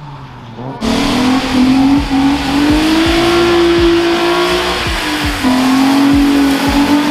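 Drift car engine held at high revs, with a broad hiss of spinning tyres; the sound starts abruptly about a second in. The engine note climbs and holds, dips briefly about five seconds in, then rises again.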